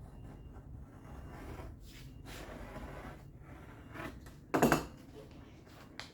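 Handling and rustling noises of work at a bench, with a few light knocks and one loud, sharp knock about four and a half seconds in.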